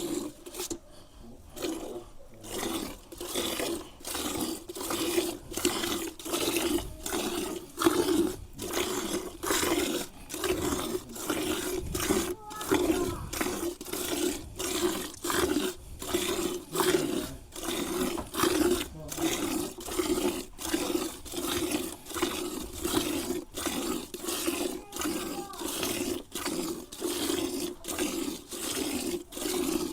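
Cow being milked by hand: steady, rhythmic squirts of milk into a pail, a little over one a second.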